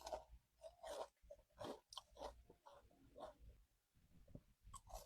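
Faint close-up chewing and crunching of an Oreo churro: short, irregular crunches and mouth sounds, a few per second.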